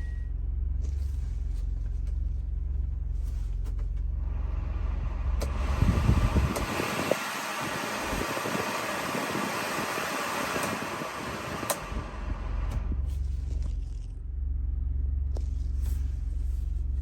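Subaru Sambar kei truck engine running with a steady low rumble. In the middle a broad hissing noise takes over for about six seconds, with a sharp click near its start and another near its end.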